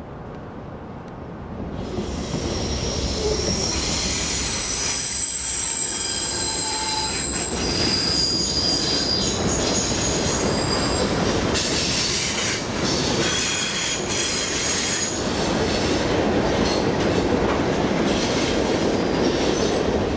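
Norfolk Southern freight train running past on curved track: a continuous rumble of the locomotive and freight cars, with wheels squealing in several high steady tones that come and go. The sound comes in suddenly about two seconds in.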